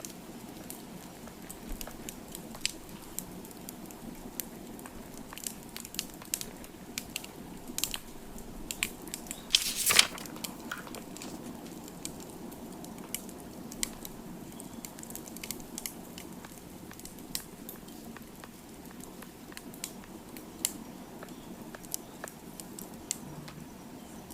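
Wood fire crackling steadily with scattered sharp pops, one louder burst of crackling about ten seconds in.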